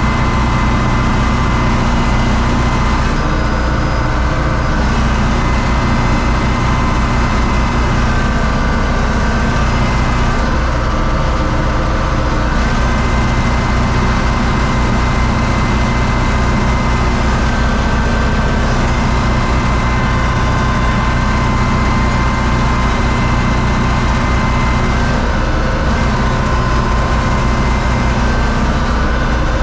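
U650 tractor's four-cylinder diesel engine running steadily, with a thin steady whine above the engine note.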